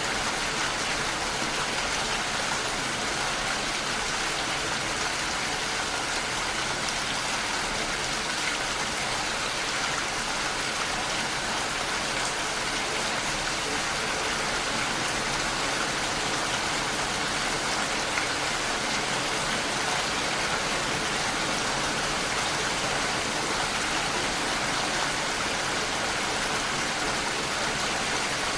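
Steady rain against a window: an even, unbroken hiss with no separate drops or knocks standing out.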